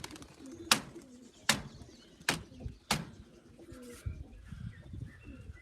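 Racing pigeons cooing, with four sharp knocks or claps spaced under a second apart in the first three seconds.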